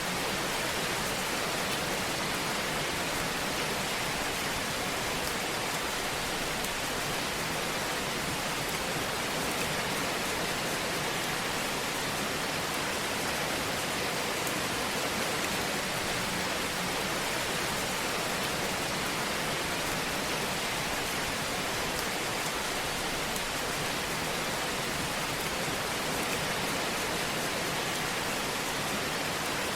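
Steady hiss of a wood fire burning, with faint scattered crackles.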